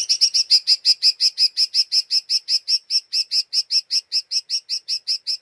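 Cucak ijo mini (lesser green leafbird) giving a fast, even 'ngeriwik' chatter: a string of short, high, chirping notes at about five a second, fading slightly toward the end.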